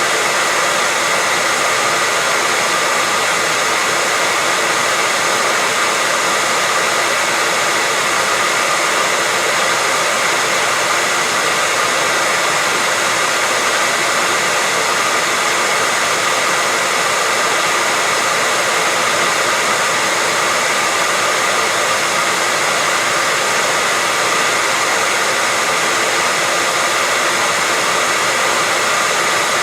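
Hair dryer running steadily: a continuous, even blowing noise with a faint steady whine on top.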